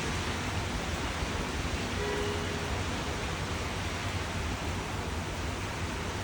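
Steady rain, an even hiss with no break.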